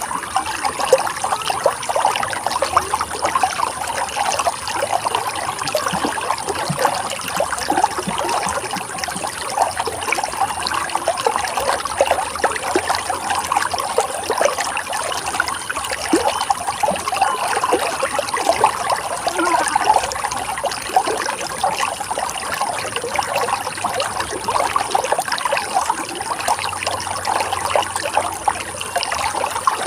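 Running water flowing steadily, a continuous rush with a constant flicker of small splashes.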